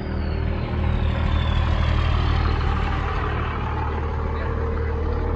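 12-valve Cummins 5.9 L straight-six diesel in a Dodge Ram 2500 running at a steady pace through its muffler, a deep even drone. It sounds healthy and not too loud.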